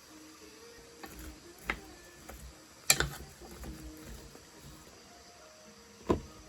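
Kitchenware knocking and clattering during cooking: a few sharp, separate knocks, the loudest about three seconds in and another near the end, over a faint background of insect sounds.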